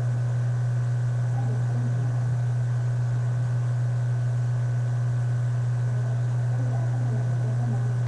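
Steady low hum with an even background hiss: the noise floor of a webcam recording, with no other clear sound.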